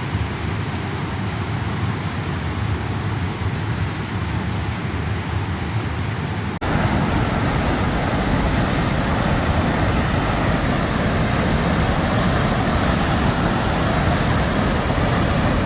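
Steady roar of rushing water, a continuous noisy wash with no distinct events; it cuts abruptly to a louder, denser roar about six and a half seconds in.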